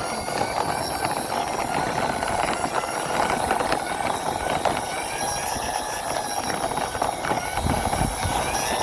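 Plastic wheels of a toy cement mixer truck rolling along a concrete wall, a continuous gritty rattle of fine clicks. A low rumble comes in near the end.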